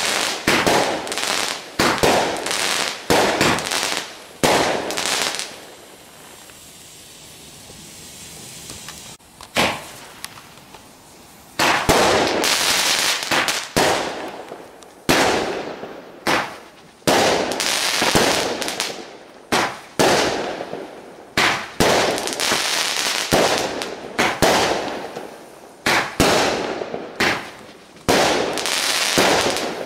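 Garden fireworks bursting in the air: a rapid string of sharp bangs and crackles. There is a lull of a few seconds with only a faint hiss about six seconds in, then another fast run of bangs.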